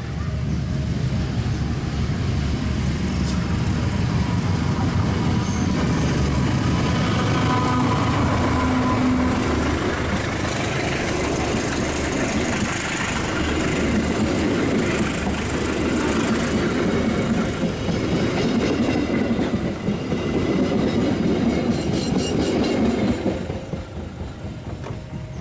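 A diesel-hauled passenger train passing close by: the locomotive, then a long rake of coaches rumbling and clattering over the rails. The noise dies down sharply near the end as the last coach passes.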